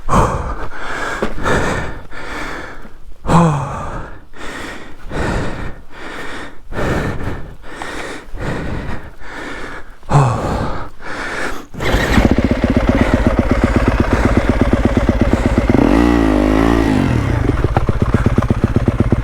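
Rapid heavy breathing with a few gasps of effort for about twelve seconds, then the Yamaha WR250F's single-cylinder four-stroke engine starts and runs steadily, revved briefly up and down a few seconds later.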